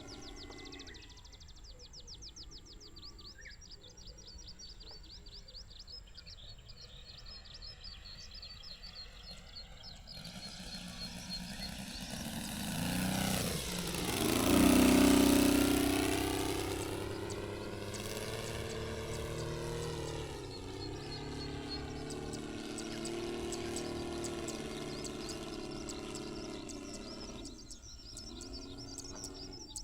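The Saito FG-60R3 three-cylinder four-stroke radial engine of an RC scale Sopwith Pup in flight drones steadily. It swells to its loudest in a close pass about halfway through, its pitch dropping as it goes by, then continues at a steady distance. Birds chirp in the background.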